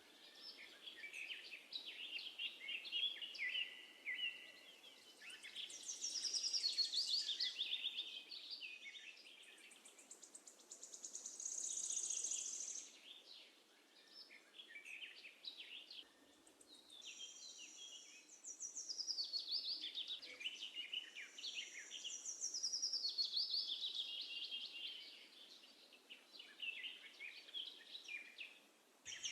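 Sparrows chirping and twittering, with quick rapid-fire trills, the chatter swelling and fading every few seconds.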